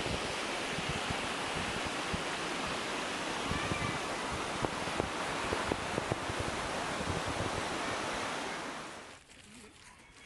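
Low waterfall rushing steadily, with wind buffeting the microphone in low rumbles. The sound drops away suddenly about nine seconds in.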